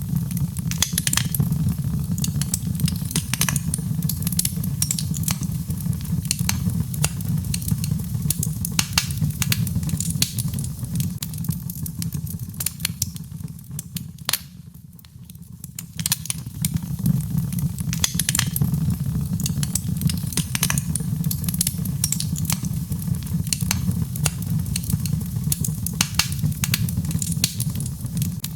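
Birch logs burning in a fireplace: dense, irregular crackling and popping over a steady low rumble. The fire goes briefly quieter about halfway through.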